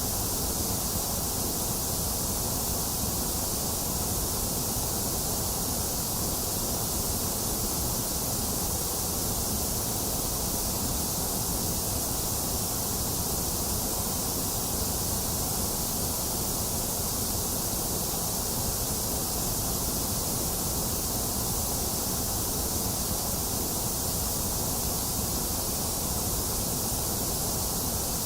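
Steady, unchanging white noise: an even hiss with no breaks or events, strongest in the high range.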